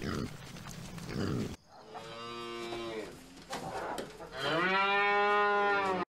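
A pig's short grunts, then a cow mooing twice: a call about two seconds in, and a second, longer and louder moo near the end.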